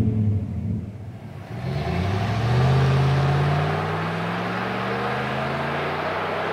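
RAM 1500's 5.7L Hemi V8 running through a Flowmaster American Thunder cat-back exhaust with a 50 Series muffler. The sound dips briefly about a second in, then the exhaust note swells and climbs steadily in pitch as the truck drives and accelerates.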